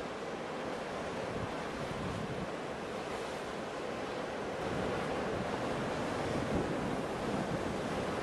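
Ocean waves washing onto a shore in a steady rush, swelling a little about halfway through, with some wind.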